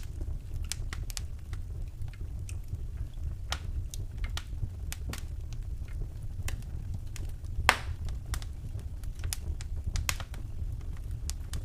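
Wood fire crackling in a fireplace: irregular sharp snaps and pops, the loudest one about two-thirds of the way through, over a steady low rumble.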